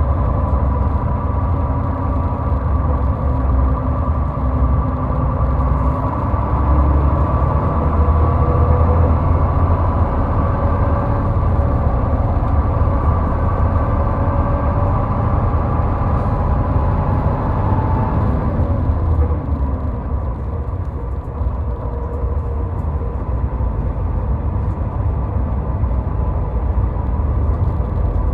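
Steady road noise of a car driving on a highway: a deep rumble with a hum that climbs slowly in pitch, then drops away and eases off a little about two-thirds of the way through.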